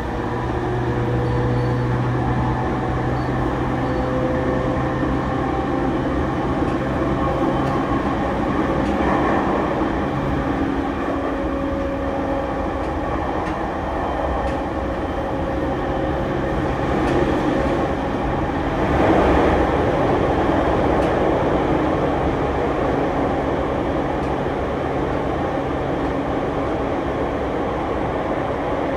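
Sotetsu 10000-series electric train running, heard inside the passenger car: wheel and rail rumble with a steady hum from the Mitsubishi IGBT-VVVF inverter drive and traction motors. A louder rush of running noise swells about 19 seconds in, then settles.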